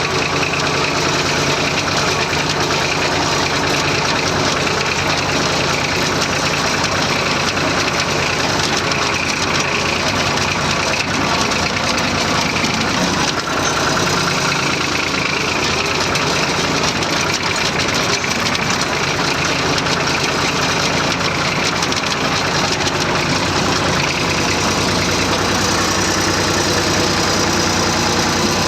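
Massey Ferguson 35 tractor's diesel engine running steadily and loud, with a constant rumble and no change in revs.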